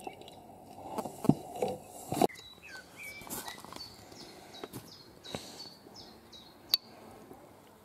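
Birds chirping with short, repeated falling calls, and a few sharp clicks, the loudest one near the end.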